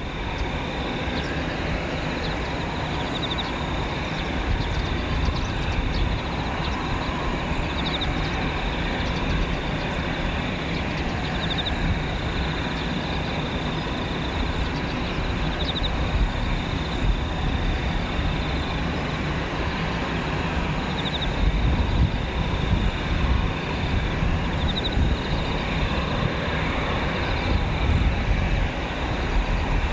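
Airbus A320-214's CFM56-5B jet engines at taxi power, a steady rumble and hiss. The low rumble grows stronger and more uneven about two-thirds of the way through.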